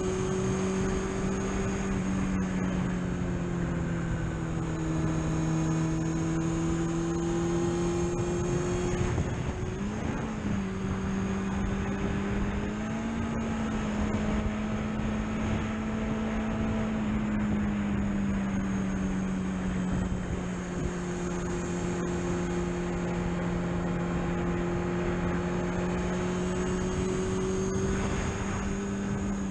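Car engine running steadily under way, its drone drifting slowly in pitch, with a brief change in engine speed about ten seconds in and a slight rise a few seconds later.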